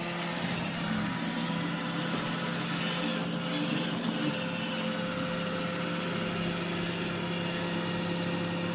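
iRobot Roomba E6 robot vacuum running, its motors giving a steady hum with a faint whine.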